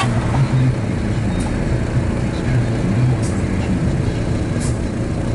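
Steady low engine rumble, running evenly, with a few faint ticks.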